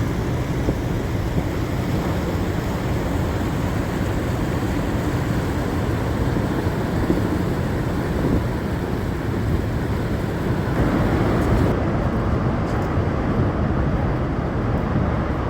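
Steady rushing roar of Niagara Falls' falling water mixed with wind on the microphone; the higher hiss thins out about twelve seconds in.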